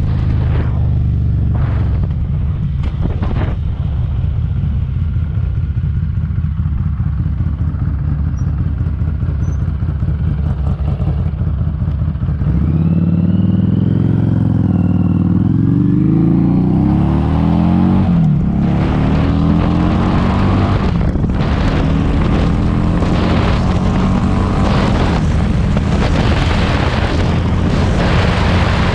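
Harley-Davidson Street 500's V-twin engine under way, with heavy wind noise on the microphone. A little under halfway through it pulls hard, its note rising through a gear and dropping at a shift, then it runs on steadily.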